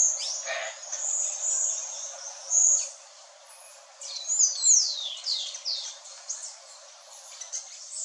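Birds singing and calling: high, thin whistled notes, with a quick run of down-slurred whistles about four seconds in.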